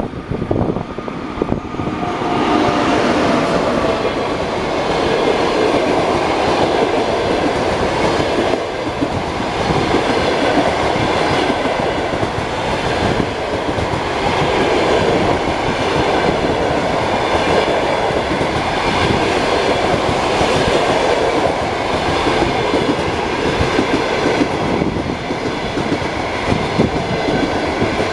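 Passenger train hauled by a ChS4 electric locomotive passing, its wheels clattering over the rail joints in a long steady run that builds up about two seconds in.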